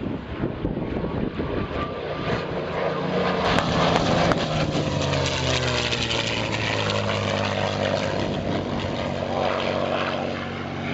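Piston-engined warbird fighter flying past, its engine note loudest about four seconds in, then dropping in pitch as it passes and running on at a lower pitch.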